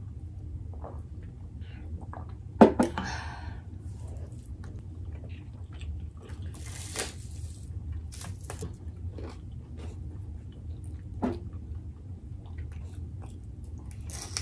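People chewing and biting food close to the microphone, with soft wet mouth sounds and clicks of fingers handling food. A sharp knock sounds about two and a half seconds in, a short hiss near the middle, and a smaller knock later.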